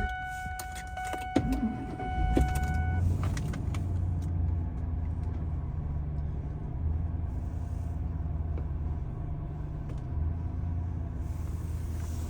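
Lincoln Blackwood's 5.4-litre DOHC V8 starting from cold: the starter clicks and the engine catches about two seconds in, then idles steadily. A steady warning tone sounds over the start and stops about three seconds in.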